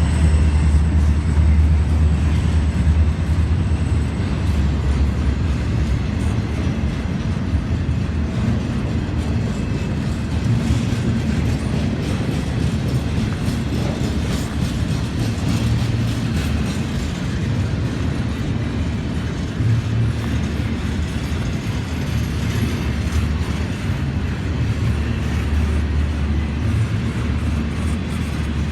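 Train cars rolling past with a steady low rumble and wheel clicks over the rail joints. A high wheel squeal fades out about four seconds in.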